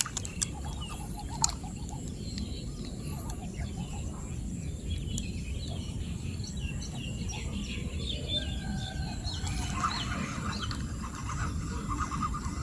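Birds chirping in many short, quick calls, with a run of faster, lower repeated notes near the end, over a steady low rumble.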